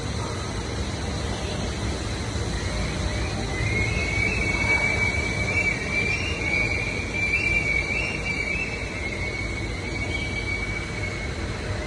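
A vehicle runs with a steady low rumble, and a long high-pitched squeal comes in a few seconds in, holds for about seven seconds and fades near the end.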